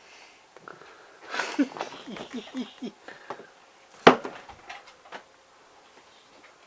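A few brief, indistinct vocal sounds from a person, then one sharp knock or clack about four seconds in, with a few small handling clicks.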